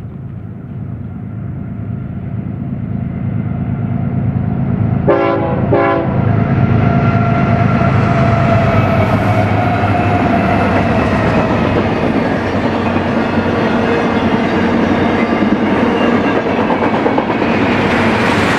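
BNSF freight train's diesel locomotives approaching and growing louder, sounding two short horn blasts about five seconds in, then passing close with a steady engine rumble. Near the end the intermodal container cars roll by with wheel clatter on the rails.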